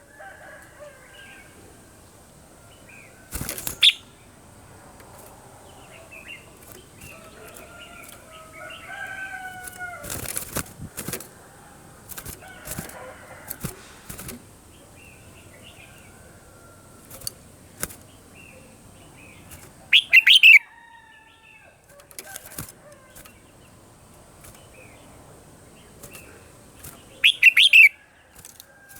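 Red-whiskered bulbuls singing: scattered short whistled phrases that glide up and down. Four loud, sharp bursts stand out, spaced several seconds apart.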